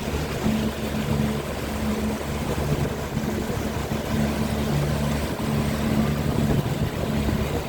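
Motorboat engine running steadily under way, a low hum that swells and fades about once a second, over a constant rush of water and wind.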